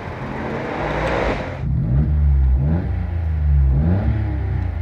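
Citroen C1's three-cylinder petrol engine running and being revved, its pitch rising and falling a few times, heard from inside the cabin.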